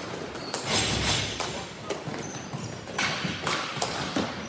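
Ball hockey play on an indoor court: sharp knocks of sticks and the hard plastic ball, with a heavier thud about a second in and a cluster of quick knocks about three seconds in.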